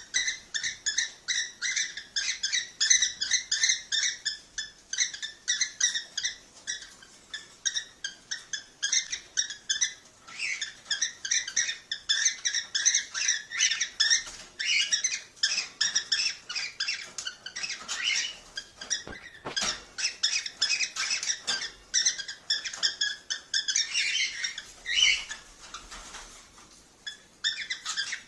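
Cockatiels chirping and whistling in a dense, fast run of short repeated calls, the kind of chatter played to stimulate cockatiels to breed. The calls thin out briefly about three-quarters of the way through, then pick up again.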